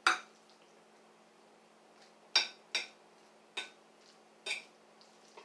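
A utensil clinking against the dish about six times, sharp separate clicks with gaps between, as the noodles are stirred to mix in the scorpion pepper powder.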